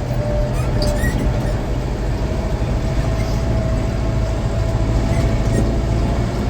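Tractor engine running steadily under load with a low rumble, heard from the driver's seat, with a few short squeaks and clicks over it.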